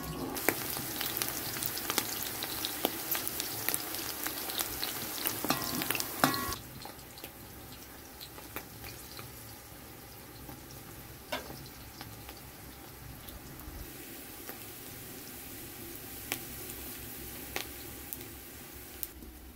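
Food frying in a pan, sizzling with scattered crackles. It turns markedly quieter about six seconds in.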